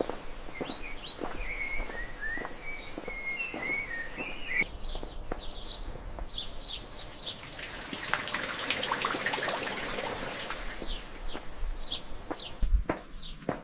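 Birds chirping: a warbling, whistle-like song for the first few seconds, then short scattered chirps. A soft hiss swells in the middle, and light clicks run throughout.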